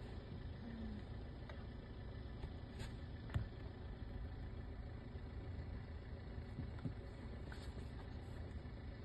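Car running slowly, a steady low rumble with a few faint clicks.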